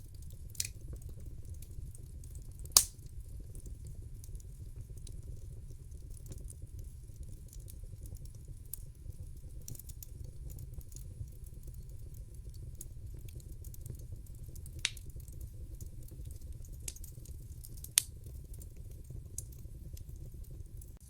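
Wood fire in a fireplace crackling: a low steady rumble of the flames with frequent small crackles and a few sharp pops, the loudest about three seconds in and again near eighteen seconds.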